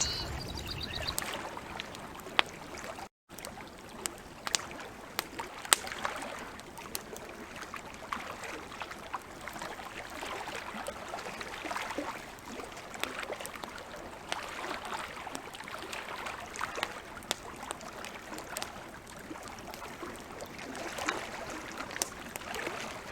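Bonfire crackling, with irregular sharp pops, over a steady watery wash. A bird chirps in the first second, and the sound cuts out for a moment about three seconds in.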